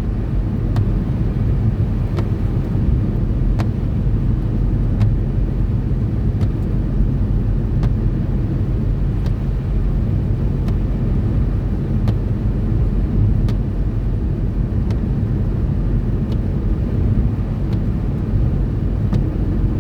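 Steady road noise from a car being driven on a snowy motorway: a low rumble of tyres and engine, with a faint tick about every one and a half seconds.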